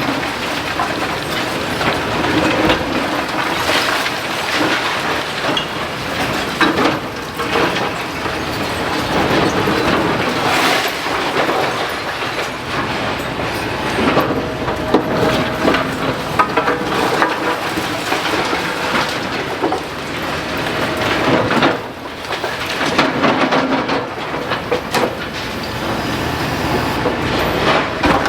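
Demolition excavator working through a building: a continuous clatter of scraping and knocking metal and masonry, with many sharp knocks along the way.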